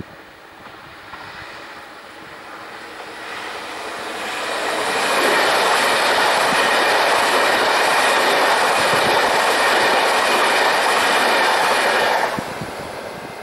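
Electric passenger train passing at speed on an electrified main line. The rush of wheels on rail and air builds over a few seconds, holds loud and steady while the cars go by, then drops off suddenly as the last car passes about twelve seconds in.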